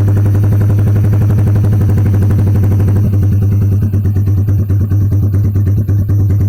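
Yamaha Jupiter MX King's single-cylinder four-stroke engine running at a steady idle through a Pro Liner aftermarket exhaust, a loud, even stream of exhaust pulses. About three seconds in the sound turns duller as the hiss above it falls away.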